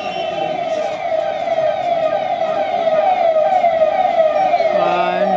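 Electronic vehicle siren sounding a rapid, repeating falling wail, about two to three sweeps a second, growing a little louder. A second steady low tone joins near the end.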